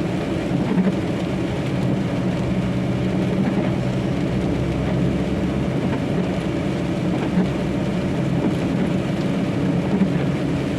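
Steady drone of a truck's diesel engine with tyre and road noise, heard from inside the cab while driving.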